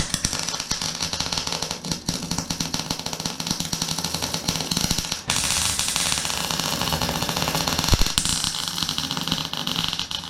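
Wire-feed MIG welder crackling steadily as it lays welds on steel chassis brackets, with brief breaks about two and five seconds in.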